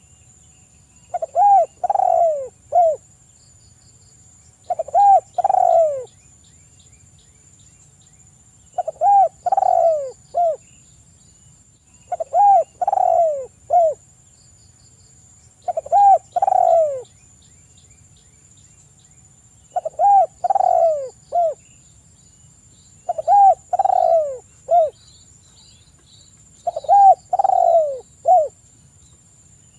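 Spotted dove (tekukur) cooing: eight repeated phrases of a few descending coos, each ending in a short clipped note, about every three and a half seconds. A faint steady high-pitched tone sits underneath.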